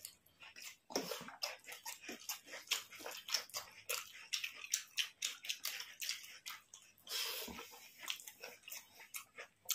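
Close-up, wet mouth sounds of people eating rice and curry: irregular soft smacks and clicks of chewing, a few each second.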